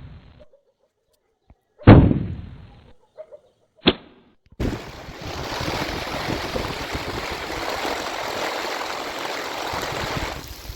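A loud thunderclap with a rumbling tail about two seconds in and a shorter crack near four seconds, then heavy rain falling steadily, which cuts off shortly before the end.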